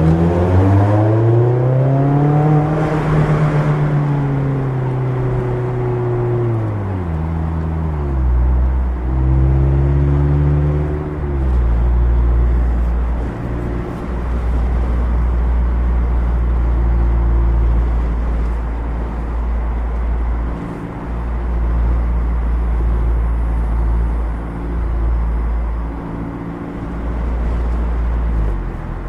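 A 2016 Mazda MX-5 Miata's four-cylinder engine through a Goodwin Racing RoadsterSport race exhaust, revving up hard in the first few seconds, then easing off as the pitch falls. After a short break about eight seconds in, it rises and falls once more, then settles into a steady low drone with brief dips.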